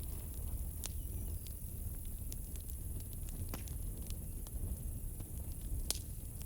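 Campfire burning with a low rumble and irregular sharp crackles and pops, the loudest about six seconds in, over a steady high chirring of crickets.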